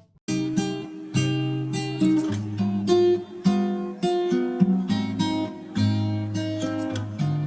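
Background music: acoustic guitar strummed in rhythmic chords, starting abruptly just after a short gap at the beginning.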